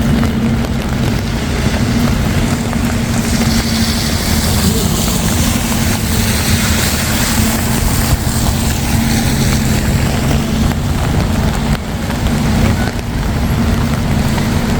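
Traffic on a wet road: a steady low engine hum, with tyre hiss from a passing vehicle that swells a few seconds in and fades away.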